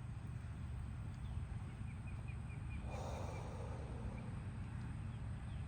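Outdoor ambience with a steady low rumble. About two seconds in, a small bird gives a quick run of high chirps, and about a second later a man lets out a long breathy sigh.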